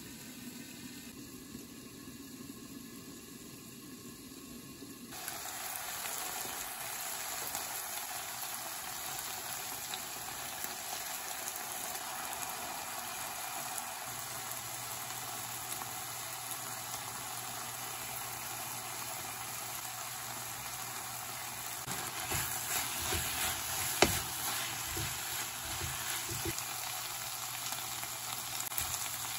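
Liver, onion and tomato frying in a pan: muffled for the first five seconds or so, then a steady sizzle once the pan is uncovered. Stirring knocks against the pan come in from about 22 seconds, with one sharp click.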